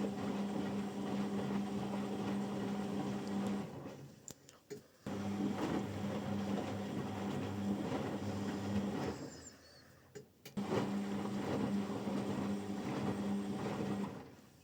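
Washing machine drum motor running in a wash cycle with a steady hum. It turns for about three and a half seconds, stops for about a second with a click or two, and starts again, three times over, as the drum tumbles the load back and forth.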